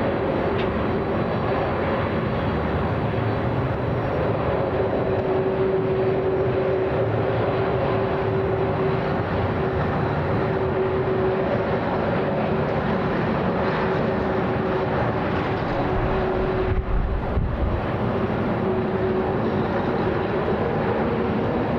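Jet airliner engines running with a steady whine over a broad rush of engine noise. A brief low rumble comes about seventeen seconds in.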